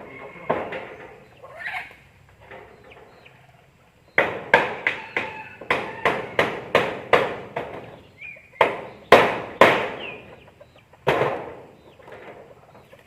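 A run of sharp hammer strikes, about three a second, then a few slower, spaced-out blows, from building work on a hut roof. Short bird chirps come in between.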